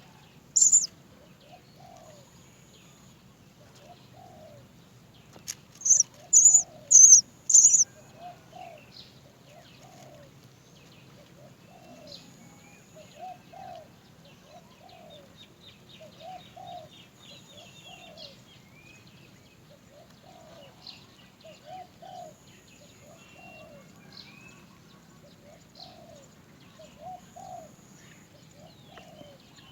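Great myna nestling's loud, high-pitched begging cries, calling to be fed: one just after the start and a quick run of four about six seconds in. Between them a soft, lower note repeats about once a second, with faint chirps.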